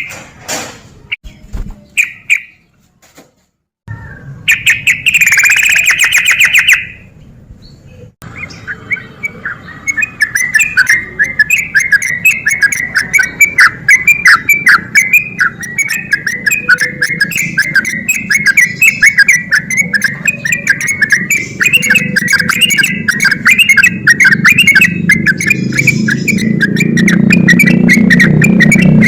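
Yellow-vented bulbul (trucukan) singing in fast, chattering 'ropel' phrases: a few short bursts, then from about eight seconds in a long unbroken run of rapid notes. A low rumble builds underneath near the end.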